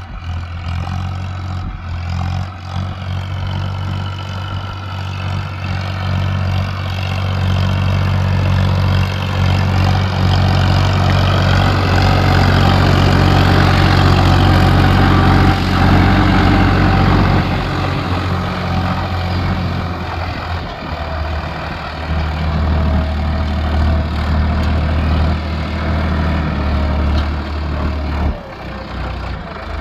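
Tractor's diesel engine running steadily and loudly, building up towards the middle and then easing off a little.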